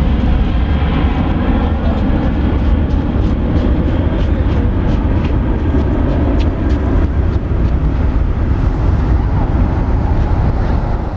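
Boeing 747-400 jet engines running, a loud steady deep rumble with a light crackle higher up.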